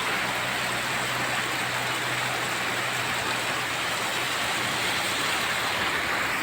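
Heavy rain falling steadily, a dense even hiss, with a faint low engine hum underneath that fades out about halfway through.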